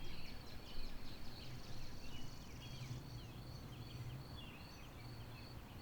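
Faint birdsong of short chirps and quick trills, over a steady high-pitched tone and a low hum.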